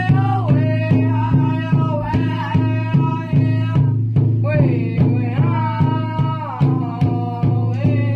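Powwow-style drum song: high-pitched singing of vocables over a steady unison drumbeat of a little over two strokes a second, the voices falling in pitch across each phrase.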